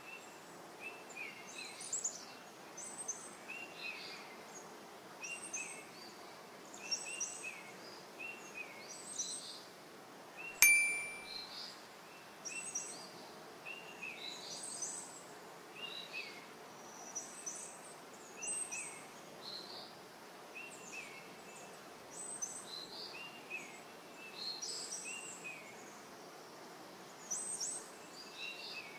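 Several birds singing short, chirping phrases that repeat about once a second over a steady outdoor background hiss. About ten seconds in, a single sharp click rings briefly.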